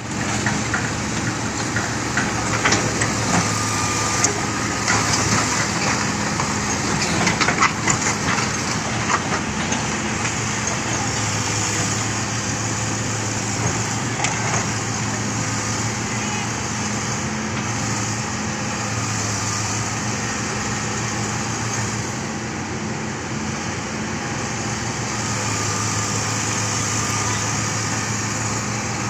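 Hitachi Zaxis 200 excavator diesel engines running steadily, with a string of sharp metal clanks and knocks in the first several seconds, then a steady engine drone.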